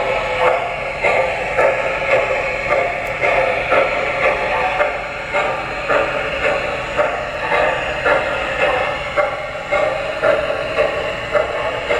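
O scale model steam locomotive's sound system playing a steady chuff, about two chuffs a second, thin and lacking bass as from a small onboard speaker.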